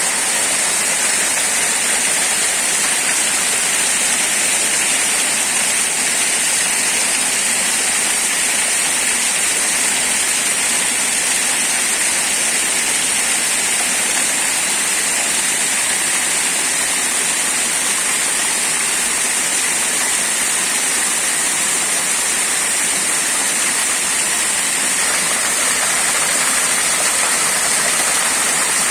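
Waterfall, its water rushing in a steady, unbroken hiss.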